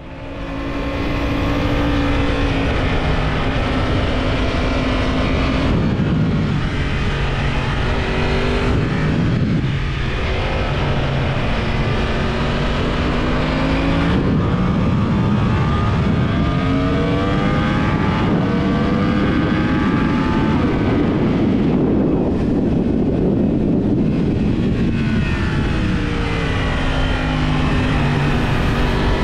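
Yamaha YZF-R1 inline-four sportbike engine through a TSR aftermarket exhaust at high revs on a racetrack. The revs climb steadily in each gear, then drop sharply several times at gear changes and braking.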